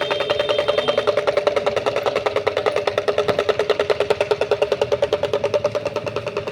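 Small motorcycle or scooter engine running steadily, with an even, fast pulsing beat.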